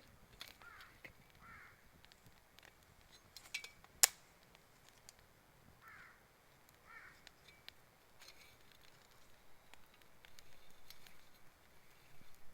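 A crow cawing in two brief clusters of a few harsh calls each, over the faint crackle of a wood fire, with one sharp pop about four seconds in.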